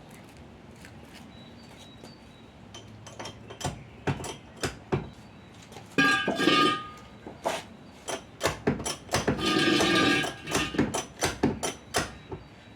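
Metal tools and engine parts clinking and knocking at irregular intervals, with louder clusters of ringing metal clanks about six seconds in and again around ten seconds.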